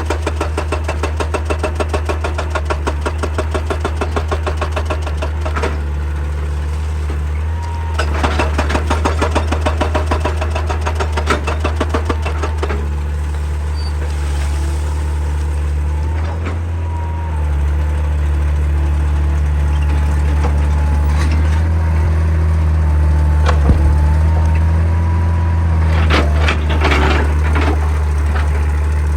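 Excavator diesel engine running steadily while a hydraulic breaker hammers rock in rapid blows, in three spells: for about the first six seconds, again from about eight to twelve seconds, and near the end, with the engine alone in between.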